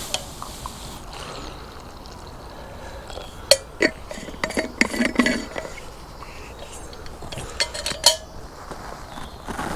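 Coffee being poured from a flask into a cup, with sharp clinks of cup and flask in a cluster around the middle and a few more near the end.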